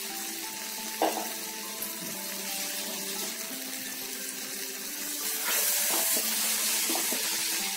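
Onion-tomato masala sizzling in oil in a non-stick kadai, a steady hiss. About five and a half seconds in it grows louder as a spatula starts stirring and scraping the freshly added spice powders through it. Faint background music with held notes plays underneath.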